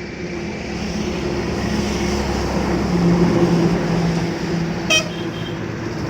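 BMW motorcycle engine running as the bike gets under way, growing louder over the first few seconds, with a brief beep about five seconds in.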